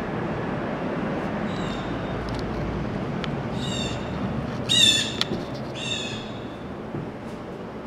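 Steady outdoor city hum with a bird calling: a few faint calls, then three stronger calls about a second apart in the middle, the loudest about five seconds in.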